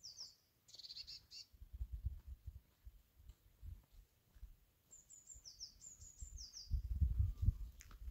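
Wild birds singing: short, high, falling chirps in quick runs, with a rapid trill about a second in and another run of chirps around five to six seconds. Under them come low thuds and rumble, heaviest near the end, from footsteps on stony ground.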